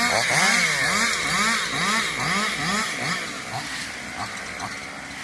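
Small two-stroke chainsaw engine revved up and down in quick repeated bursts, about two a second, then easing back toward a lower idle after about three seconds.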